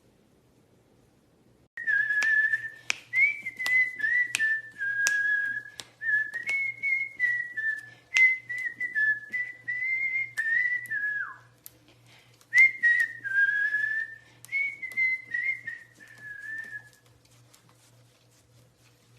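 A pet parrot whistling a tune in clear, pure notes that step up and down, with sharp clicks between notes and a short break partway through.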